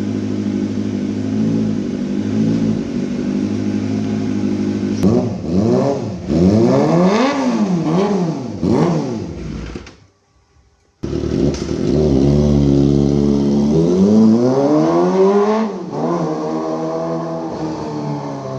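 Kawasaki ZX250 motorcycle with an aftermarket racing exhaust idling, then blipped several times in quick succession. After a short break it is held in a long rev that climbs steadily in pitch and then drops back to idle.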